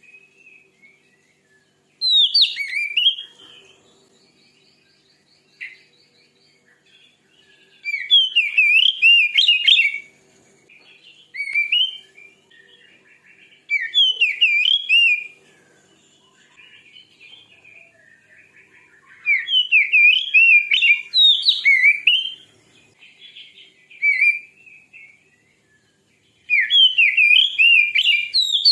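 Oriental magpie-robin (kacer) singing loud, varied whistled phrases of a second or two each, with pauses of a few seconds between them. This is the aggressive song used to provoke other kacer.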